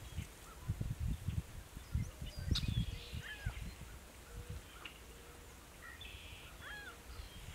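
Outdoor waterside ambience: small birds give short, scattered chirps throughout, over irregular low rumbles in the first three seconds or so that then die down.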